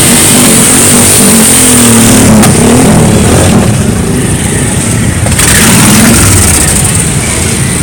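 Motorcycle engines running and revving, loud, with the engine pitch rising and falling as the bikes go by.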